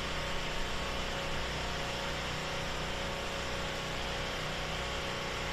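An engine or motor running steadily at idle, with a low hum under a broad hiss.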